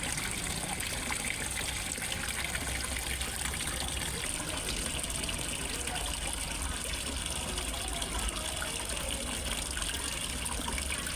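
Water steadily splashing and trickling into a fish pond from a small waterfall, an even unbroken rush.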